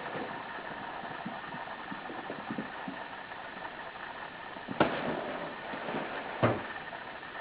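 Two sharp thumps about a second and a half apart, from kittens playing with a cat tunnel, the second deeper than the first, over a steady hiss.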